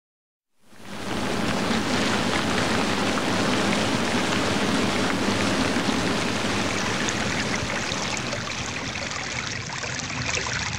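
Nature-sound recording of water: a steady, even rush that fades in from silence just under a second in.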